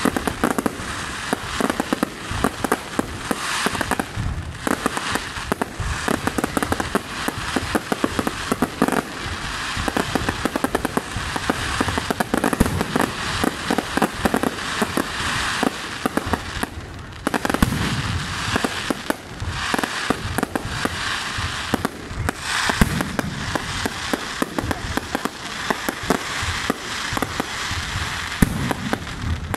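Aerial fireworks display: shells bursting and crackling in rapid, unbroken succession, many bangs a second.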